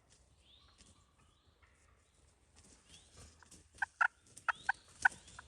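Wild turkey calling: five or six short, sharp notes in a quick series near the end, with songbirds chirping faintly in the background.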